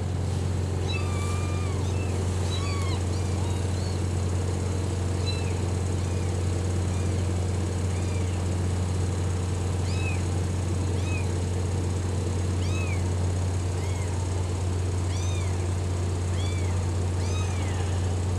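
Kittens mewing repeatedly while suckling: many short, high-pitched mews that rise and fall in pitch, about one or two a second. Under them runs a steady low hum.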